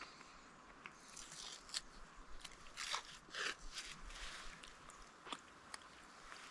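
A person eating a snack close to the microphone: irregular short crunches and bites, a dozen or so, mostly in the middle of the stretch.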